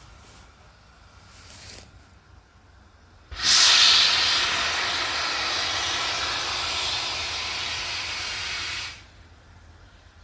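Steam locomotive venting steam: a loud, steady hiss starts suddenly about three seconds in, runs for about five and a half seconds and then cuts off sharply, after a brief fainter hiss just before.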